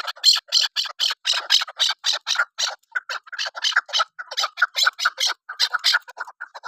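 Chukar partridge (keklik) calling: a fast, loud run of harsh repeated clucking notes, about four a second, with a few short breaks.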